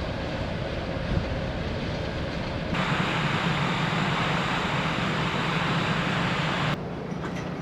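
Steady drone of the ferry Ishikari under way: a low engine hum under a rushing noise of wind and water. The rushing steps up sharply about three seconds in and drops back just before the end.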